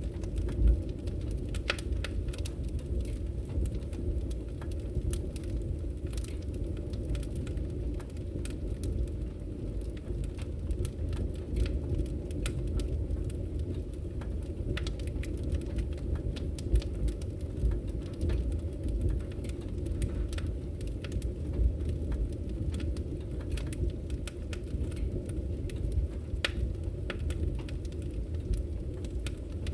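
Wood fire burning in a fireplace, with a steady low rumble of the flames and frequent sharp crackles and pops scattered through.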